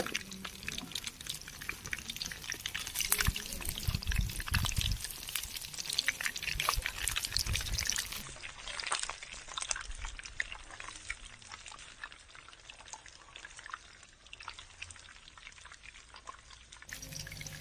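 Battered chicken lollipops deep-frying in hot oil: a dense crackle of small pops and spits, with a few heavy low thumps about three to five seconds in.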